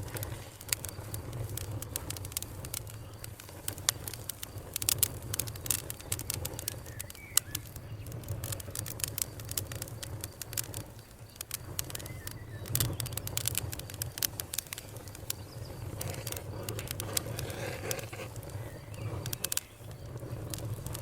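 Campfire burning, with wood crackling and popping in irregular sharp snaps over a steady low rumble.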